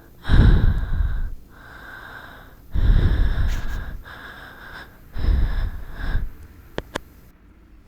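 A woman breathing heavily close to the microphone. Three loud breaths come about two and a half seconds apart, with quieter breaths between them, and two short clicks follow near the end.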